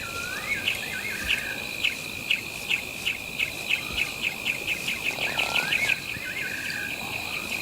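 Savanna night ambience: a steady high insect drone under a run of short chirps that speed up, and a bird's rising, then falling whistled call twice, about five seconds apart.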